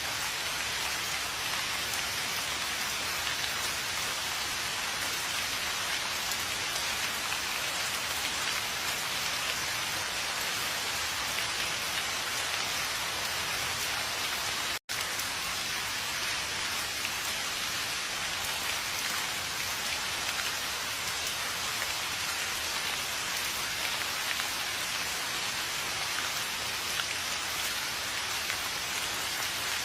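Steady rain falling, a dense even hiss of many drops. It cuts out to silence for an instant about halfway through, then resumes unchanged.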